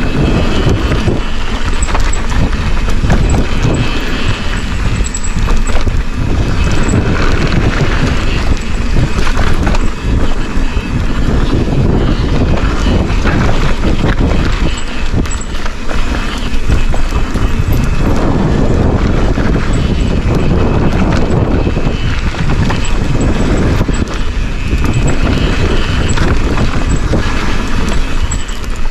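Forbidden Dreadnought full-suspension mountain bike descending a dirt trail: loud wind rushing over the camera microphone mixed with the steady rumble and rattle of tyres, chain and frame over the ground, dipping briefly a few times.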